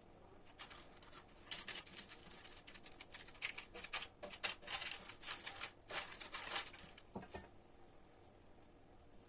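Irregular rustling and light clicks of things being handled, from about half a second in until about seven seconds in.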